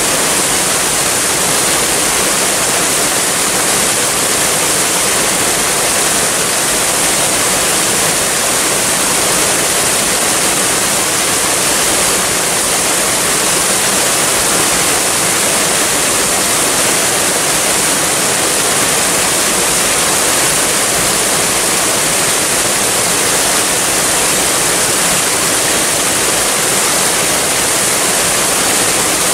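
Waterfall rushing in a steady, even hiss, with the upper tones strongest.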